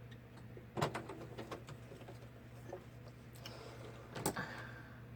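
A few light taps and clicks from craft supplies being handled on a work table, the clearest about a second in and near the four-second mark, over a steady low hum.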